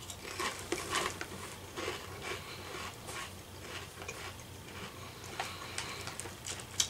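A person chewing a mouthful of Lay's potato chip with the mouth closed: soft, irregular crunches and crackles, with a sharper crunch near the end.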